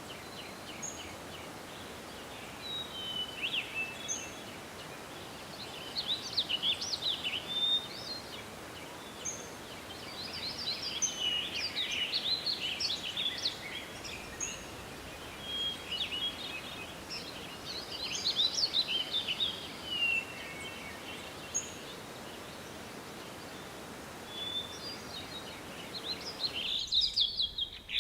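Several birds singing in rapid chirping phrases that come in clusters every few seconds, with a few short high notes, over a steady background hiss of forest ambience.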